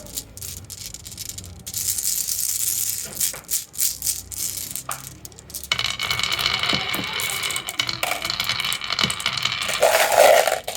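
Marbles rolling and rattling down a wooden marble run, clicking as they knock against the track pieces and each other. The rattle thickens about halfway through as more marbles run together.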